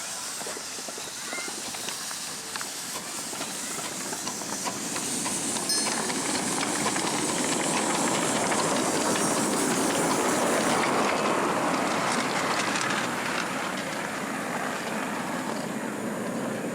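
Steam hissing from a miniature steam locomotive, building over several seconds, holding at its loudest, then easing off.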